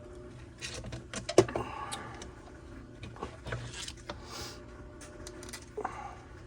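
Clicks, knocks and scrapes of hands working on a Homelite string trimmer, with a sharp click about one and a half seconds in, over a steady low hum.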